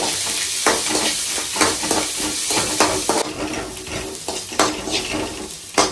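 Chopped onions sizzling in hot oil in a pan while being stirred, with repeated scrapes and knocks of the spoon against the pan. The sizzle dies down a little about three seconds in.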